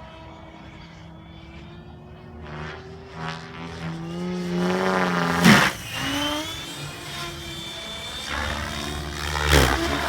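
Gaui X7 radio-controlled helicopter in flight, its rotor and motor pitch rising and falling as it manoeuvres. There are two loud whooshes, one about five and a half seconds in and one near the end, with the pitch dropping sharply at the first as it passes close.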